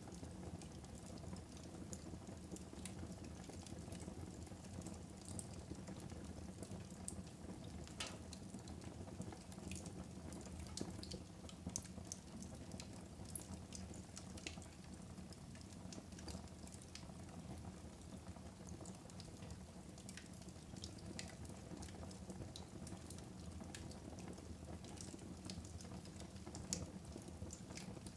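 A wood fire burning in a fireplace, with a soft steady rush and scattered sharp crackles and pops; one pop near the end is louder than the rest.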